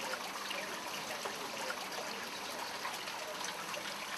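Leek pieces frying in a little oil in a wok over a slow gas flame: a steady sizzle with small scattered crackles.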